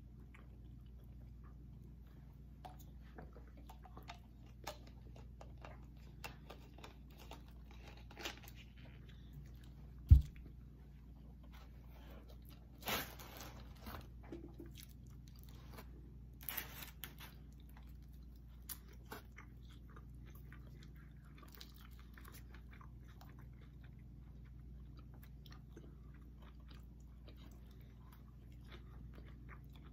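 Close-up chewing and biting of pizza and cheese sticks, with many small wet mouth clicks. A single loud thump comes about ten seconds in, and two brief rustling noises follow a few seconds later.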